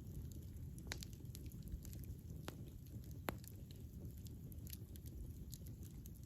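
Campfire burning: a low steady rumble of flames with scattered sharp crackles and pops, the loudest a little over three seconds in.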